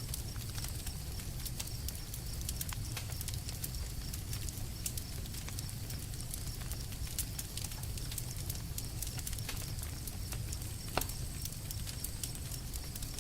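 Wood campfire burning: steady crackling with many small pops over a low rumble of flame, and one sharper pop late on.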